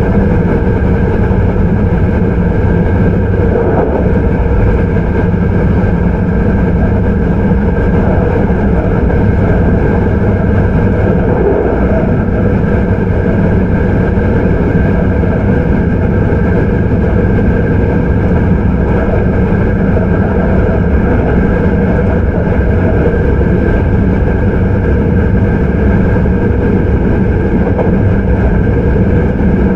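Hankyu 9300 series electric train with Toyo IGBT-VVVF traction running at steady speed, heard from inside the car. The sound is a constant rumble of wheels on rail with a steady hum that neither rises nor falls.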